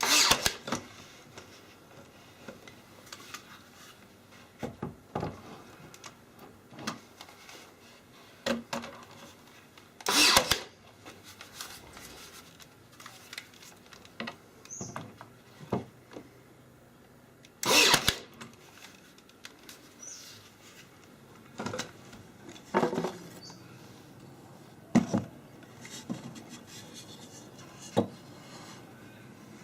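Scattered knocks, rubs and scrapes of wooden parts being handled, with longer scraping strokes about ten and eighteen seconds in.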